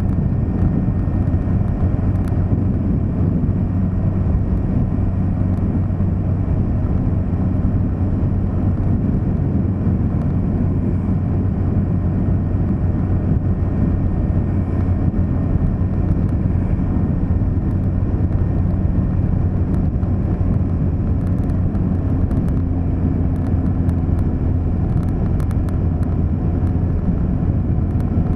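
Car driving steadily at road speed: a constant low drone of engine and road noise, with a few faint ticks near the end.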